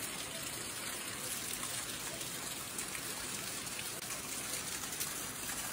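Heavy rain falling steadily, an even hiss of drops on the roof and ground, with water pouring off the roof eaves.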